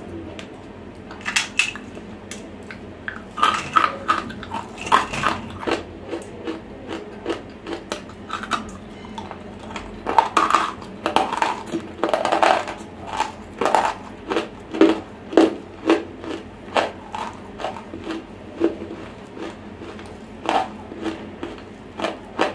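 Close-miked dry crunching and chewing of semi-roasted clay lumps, the crunches coming about twice a second through the middle stretch. Crumbs clink and scrape on a steel plate.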